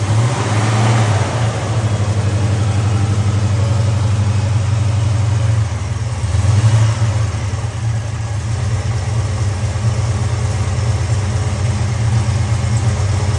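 1969 Chevrolet El Camino engine running steadily, just after a cold start, with a brief swell in revs about six seconds in.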